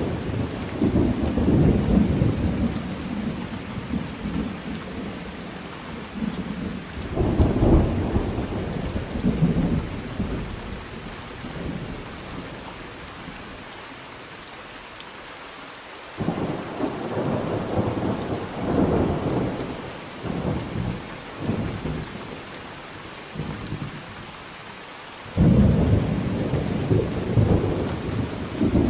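Thunderstorm with steady rain and repeated rolling thunder. The thunder comes in waves and breaks in suddenly about a quarter of the way in, at about the middle, and again near the end, with a stretch of rain alone between about 11 and 16 seconds.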